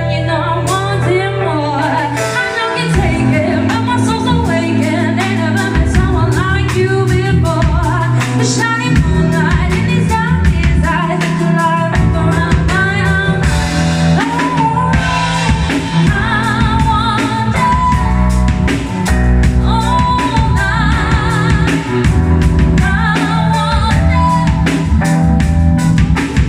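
Live band playing a song: a woman singing lead over a drum kit and a low bass line, with the drums coming in a few seconds in.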